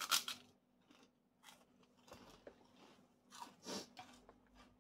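A person biting into crunchy food and chewing it. There is a loud crunch right at the start, then softer crunching chews about a second and a half in and again after three seconds.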